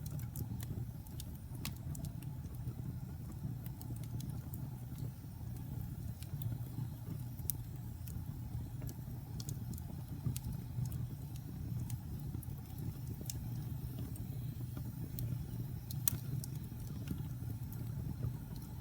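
Wood fire in a fireplace crackling, with sharp irregular pops over a steady low rumble of burning; one louder pop about two-thirds of the way through.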